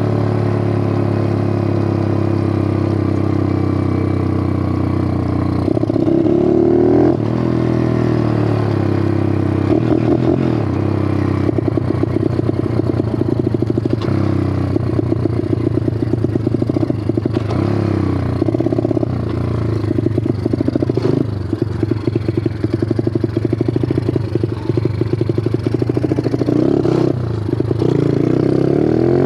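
Bigfoot 125 four-stroke pit bike engine running, revving up and settling back several times.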